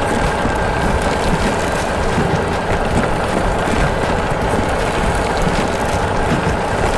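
Steady, even rumble of a vehicle engine running, with a faint constant hum over it.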